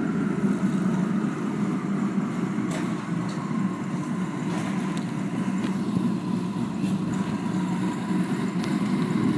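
Factory Five GTM's twin-turbo V8 running at low revs as the car creeps along, a steady low rumble. A faint whine slides down in pitch over the first couple of seconds, then holds steady.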